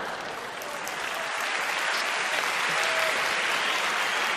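Audience applauding after a punchline, a steady clapping that swells for about three seconds and then begins to ease.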